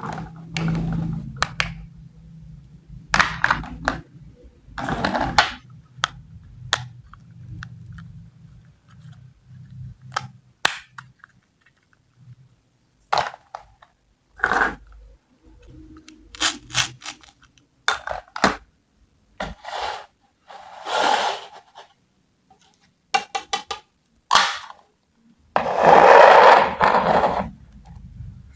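Food and kitchen utensils handled and cut on a hard surface: scattered sharp clicks, taps and short scrapes, with one longer, louder scraping stretch near the end.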